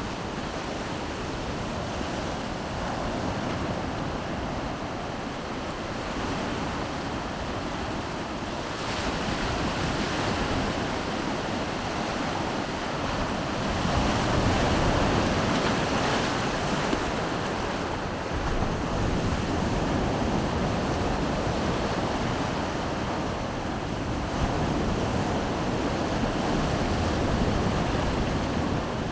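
Baltic Sea surf washing onto the shore in a continuous rush that swells louder and eases back as waves come in, with wind rumbling on the microphone.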